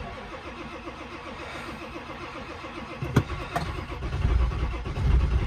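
Ford 7.3 Powerstroke V8 turbodiesel cranking on a cold start without a block heater, the starter turning it over in a steady rhythmic chug on batteries low on charge. From about four seconds in it grows louder and deeper as it begins to fire, but it has not caught yet.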